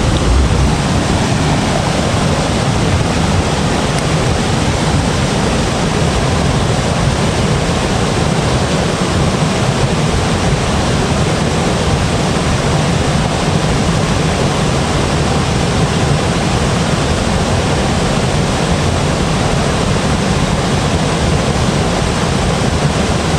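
A loud, steady rushing noise that holds even throughout, with no breaks or separate events.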